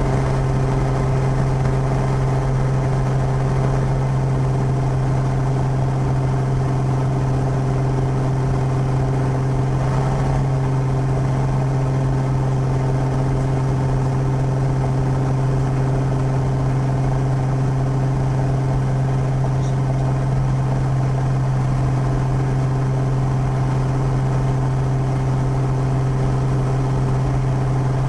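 Piper PA-32's six-cylinder Lycoming piston engine and propeller running steadily: a loud, even drone that holds one pitch throughout.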